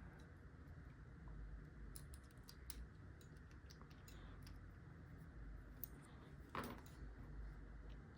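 Faint, scattered small clicks of a steel lock pick and tension wrench working inside a padlock's keyway as it is picked, with a slightly louder rattle about six and a half seconds in.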